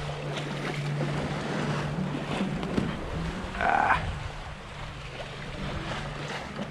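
Sailboat underway in a swell: a steady low drone under splashing water and wind noise, with a short squeaky tone about three and a half seconds in.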